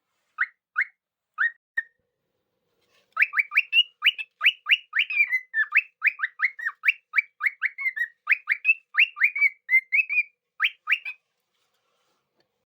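White-faced cockatiel chirping: four short chirps, then after a pause about eight seconds of quick repeated chirps and whistles, roughly three a second.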